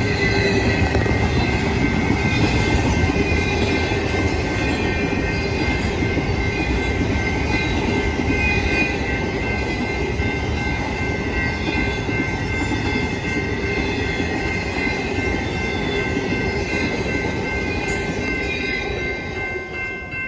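A train passing close by, its wheels and cars rumbling steadily, with a steady high-pitched squeal held over the rumble. The sound starts abruptly and eases slightly toward the end.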